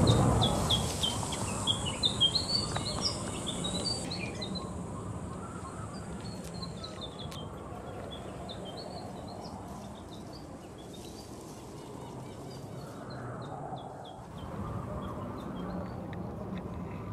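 Small birds chirping in quick, high runs, busiest in the first few seconds and sparser after, over a steady low outdoor background. A louder noise dies away during the first second or two.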